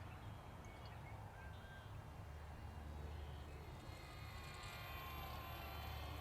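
Twin 1S brushless motors and propellers of an E-flite UMX Ultrix micro RC plane whining faintly in flight, throttled back. The whine grows stronger and rises slightly in pitch from about four seconds in, over a low wind rumble on the microphone.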